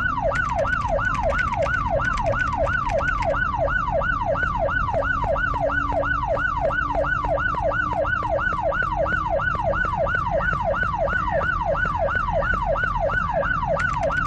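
Siren with a fast, evenly repeating downward-sweeping tone, about three falling sweeps a second, steady throughout.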